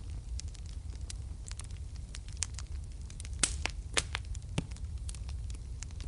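Wood fire burning in a fireplace, crackling and popping irregularly over a steady low rumble of flames, with a couple of louder pops about three and a half and four seconds in.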